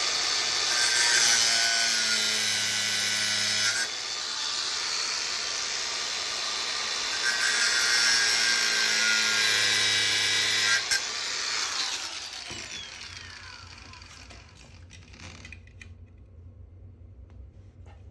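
A power tool cutting metal, with a steady high whine and grinding that ease off about four seconds in and bear down again near eight seconds. About eleven seconds in the motor is switched off and winds down with a falling whine.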